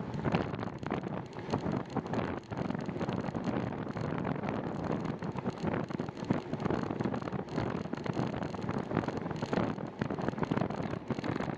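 Wind buffeting the microphone of a camera on a moving bicycle: a rushing noise that swells and drops in quick, uneven gusts.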